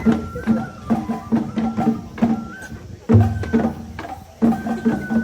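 Japanese festival hayashi: a high bamboo flute holding and stepping between notes over quick, steady taiko drum strokes, with a heavier low drum stroke about three seconds in.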